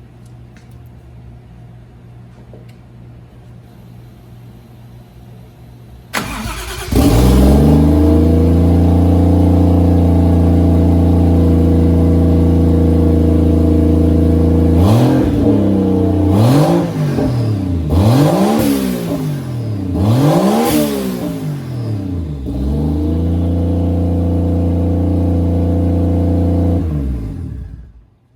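Turbocharged Toyota 1JZ inline-six engine starting up for the first time after being swapped in: a low hum, then it cranks and catches about six seconds in and settles into a steady idle. It is blipped up and down several times, returns to idle, and is switched off near the end.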